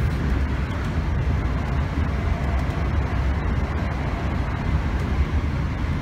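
Steady running noise of a Northern Class 321 electric multiple unit under way, heard from inside the carriage: a constant deep rumble with an even rushing noise above it and no breaks.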